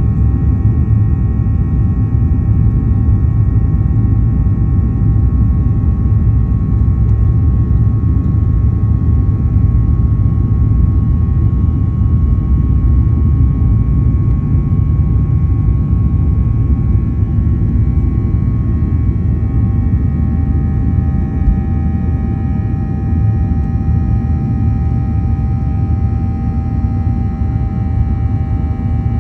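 Boeing 737-800 cabin noise heard from a forward window seat: a steady, loud low rumble of airflow and CFM56-7B jet engines, with steady engine tones whining above it.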